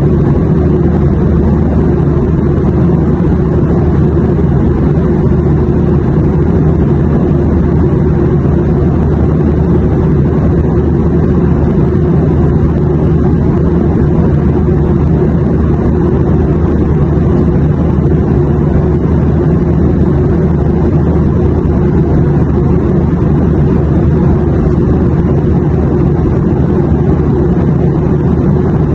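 Airplane noise: a loud, steady, unchanging low rumbling drone with a faint hiss above it.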